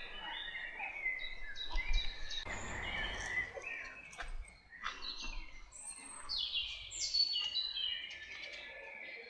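Several wild songbirds singing at once, with overlapping chirps, trills and falling whistled phrases. A brief rush of noise about two and a half seconds in.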